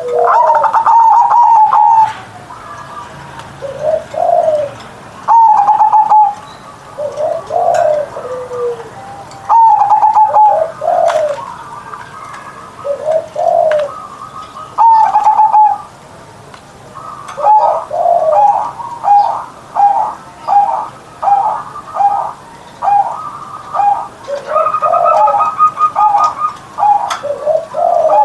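Zebra dove (perkutut) cooing: rolling coo phrases repeated every few seconds, then from about two thirds of the way in a quick run of short clipped coos, roughly one and a half a second.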